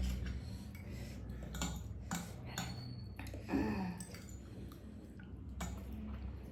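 Eating utensils clinking and tapping against a dish, several separate light clicks, with a brief vocal sound about three and a half seconds in.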